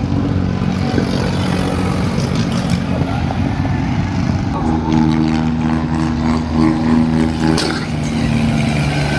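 Tractor diesel engine running under load, with a strong steady engine note that grows louder about halfway through.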